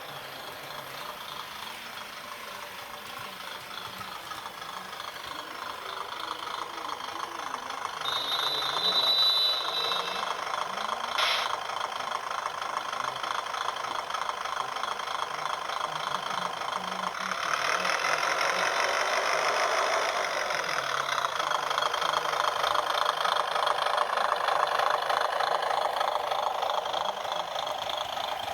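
HO gauge model diesel railcar train running on track, its motor and wheels giving a steady fine rattle that grows louder as it comes closer. A brief high whine about eight seconds in and a single click about three seconds later.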